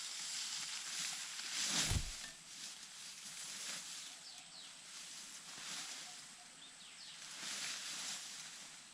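Rustling and scuffling in waves, with a dull thump about two seconds in and a few faint, short, falling bird chirps.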